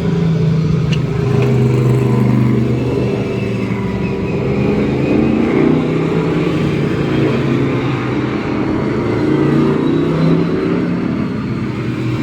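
V8 Hotstox oval race car engine running hard on track, its pitch rising and falling repeatedly as the car accelerates and lifts.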